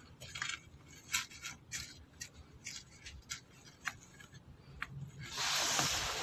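A sharpened stainless steel needle scraping and clicking against a circuit board as it is worked into a solder-filled through-hole under a soldering iron. Small scattered scrapes, then a louder rasping hiss lasting about a second near the end.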